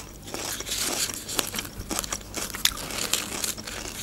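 Close-miked chewing of a fresh radish, with many short, crisp crunches at an uneven pace.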